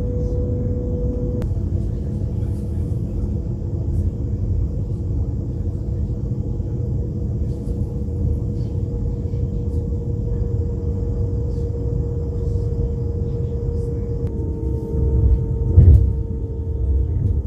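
Moving passenger train heard from inside the carriage: a steady low rumble of wheels on rails with a steady hum over it. A brief louder thump comes near the end.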